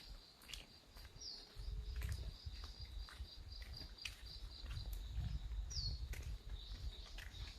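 Village nature ambience: a steady high insect trill with three short bird chirps, about a second in, near the start and near six seconds in. Scattered sharp ticks and a low rumble lie underneath.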